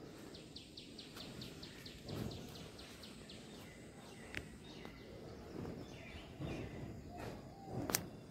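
Faint outdoor ambience with a bird calling: a rapid run of high chirps, about five a second, for the first three seconds or so, and a few short low notes near the end. Low rumbling noise runs underneath, and a sharp click comes near the end.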